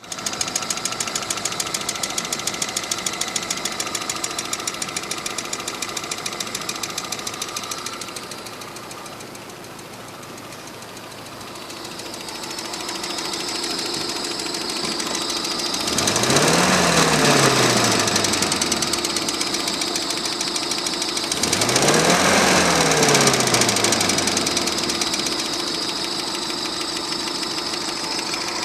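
UAZ's UMZ-417 four-cylinder petrol engine running with a fast, regular knock of unknown cause, then revved twice in the second half, its pitch rising and falling each time.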